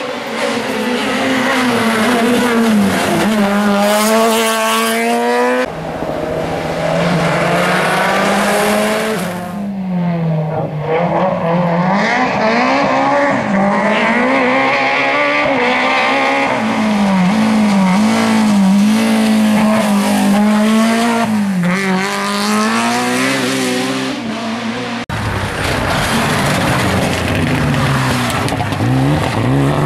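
Rally cars at full throttle on a special stage, engine revs climbing through the gears and dropping on lifts and braking, in three separate passes cut together, with the sound changing abruptly about six seconds in and again near the end.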